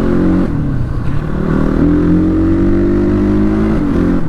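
KTM 250 Duke's single-cylinder engine running through a replica Akrapovic exhaust, accelerating under way with its pitch rising steadily, then dropping sharply near the end as it shifts up a gear.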